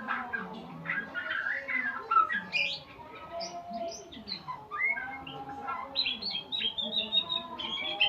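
Murai songbird singing a rapid, varied run of whistled phrases, chirps and trills, as used in a masteran song-training recording.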